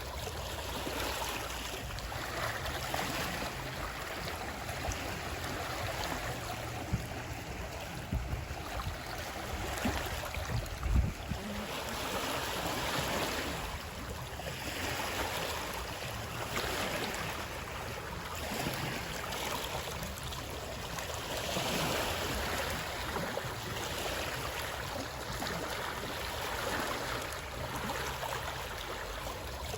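Water flowing and splashing steadily, swelling and easing every few seconds, with a few short low thumps near the middle.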